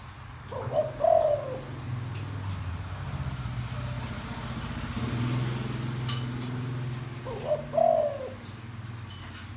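Spotted dove cooing in a deep voice: two call phrases about seven seconds apart, each a short note followed by a longer falling coo.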